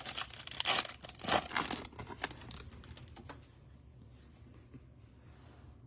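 A quick run of crinkling, tearing and clicking as a trading-card pack wrapper is torn open and cards are handled, dying away about three seconds in.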